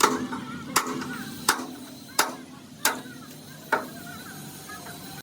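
A hammer striking six times at an even pace, about one blow every 0.7 seconds, each a sharp knock.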